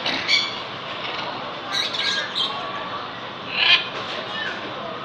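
A bird giving short squawking calls in three bouts, over a steady hiss.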